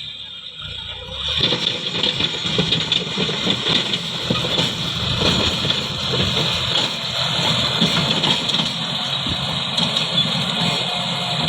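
A CAT 320D-style excavator working: a steady engine sound with clattering and knocking, picking up about a second and a half in after a quieter moment.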